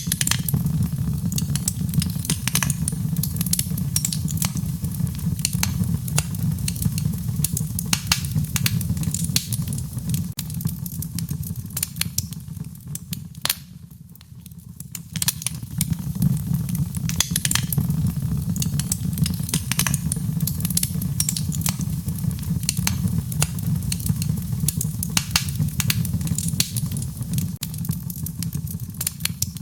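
Wood fire crackling, with frequent sharp pops over a steady low rumble of the burning fire. About halfway through, the rumble briefly fades and then returns.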